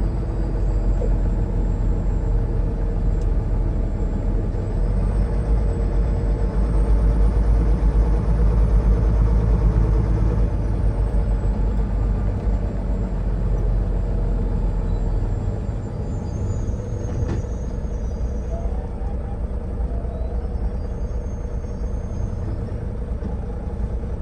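Semi truck's diesel engine and road rumble while driving at low speed; the engine noise swells a few seconds in and eases off past the halfway point. A single short click near the end.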